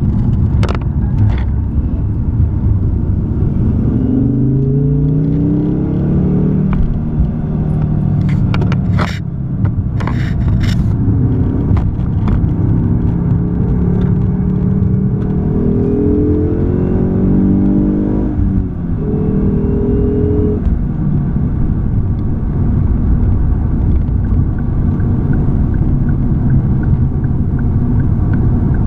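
Ford Focus ST engine accelerating hard twice, its note climbing in pitch each time and dropping back as it shifts or lifts, over a steady rumble of road and tyre noise. It settles to a steadier drone later. A few sharp knocks come near the start and around ten seconds in.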